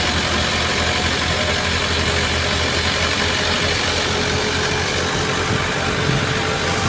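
Tractor engine driving a wheat thresher, running at a steady, unchanging speed: a constant engine drone under an even rushing hiss from the threshing drum and fan as they separate grain from chaff.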